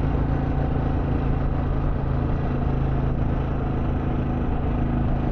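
Harley-Davidson Pan America Special's V-twin engine running at a steady cruise, heard from the rider's helmet mic, with wind rush over it.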